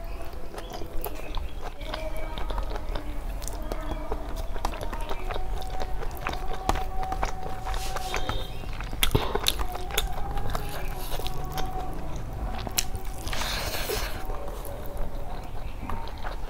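Close-miked chewing: a person eating rice with liver curry, many small wet mouth clicks and smacks, with fingers working the rice on a steel plate. A short louder rustle comes about 13 seconds in.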